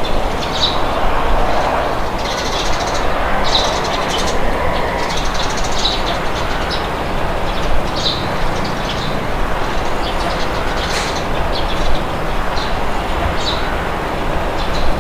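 Steady rushing wind, with birds chirping in short, scattered calls throughout.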